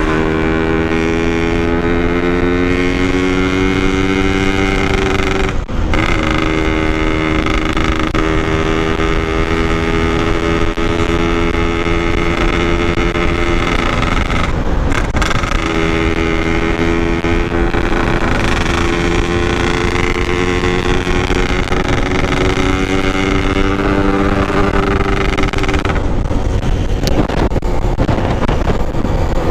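Yamaha RX-King's air-cooled two-stroke single-cylinder engine under way, its pitch climbing slowly as it pulls. It breaks off briefly for gear changes about 6 and 15 seconds in, and the throttle eases near the end.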